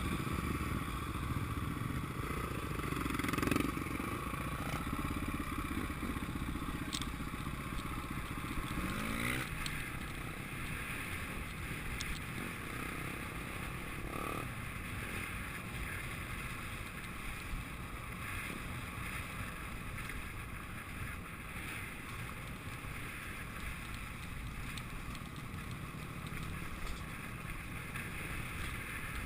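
Motocross dirt bikes running, a steady mix of engine noise with one engine revving up briefly about nine seconds in.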